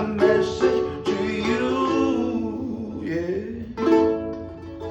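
Wagas Surf X ukulele being strummed while a singing voice carries and holds a sung line over it, then fresh strummed chords near the end.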